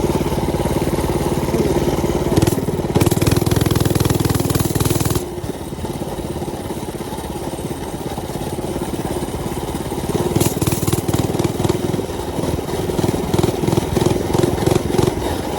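Mini bike's small engine running under way, louder and fuller for a couple of seconds near the start, easing off, then pulling harder again from about ten seconds in.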